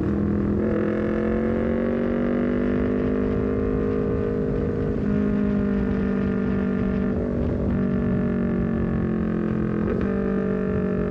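Honda CBR250RR parallel-twin engine through a full-system exhaust with a LeoVince GP Corsa carbon silencer, running under way at steady revs that rise slowly. The note breaks briefly near the start and again about ten seconds in, as gears change.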